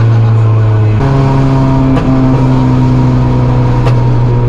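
Honda Civic race car's engine heard from inside the cabin while driving, running at a steady note. The note steps up slightly about a second in and dips briefly a second later.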